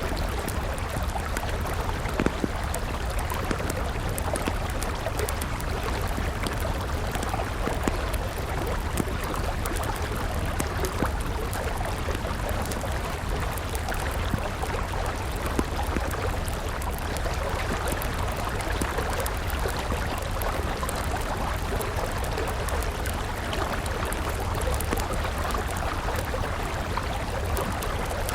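River water flowing steadily, with a wood campfire crackling over it in scattered sharp pops.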